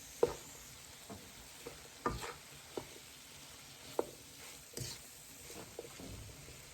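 A spoon stirring seasoned vegetables in a pot, knocking and scraping against the pot several times, over a soft steady sizzle of the vegetables simmering in butter.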